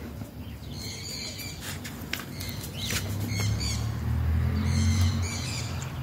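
Birds giving short, harsh calls several times.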